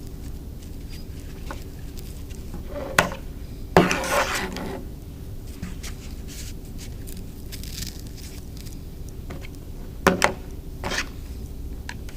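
Craft items handled on a tabletop during hot-gluing: a sharp knock about three seconds in, a short scraping rustle just after, and two more knocks near the end, over a steady low room hum.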